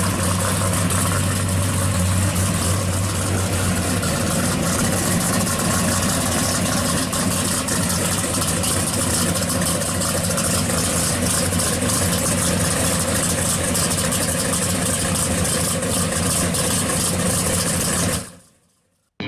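Plymouth 'Cuda's V8 idling steadily. It fades out near the end.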